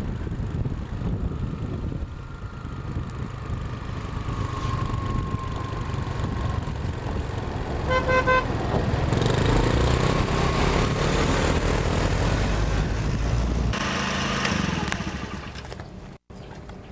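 Sugar cane train's diesel locomotive running, giving one short horn toot about halfway through, then growing louder and noisier for several seconds as it draws close.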